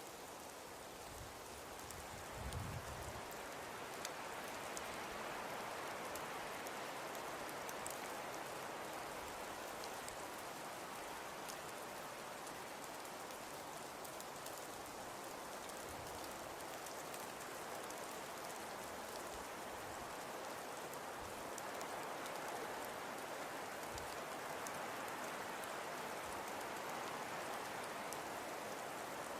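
Wood fire burning in a fireplace: a steady hiss with scattered small crackles, and a soft low thump about two and a half seconds in.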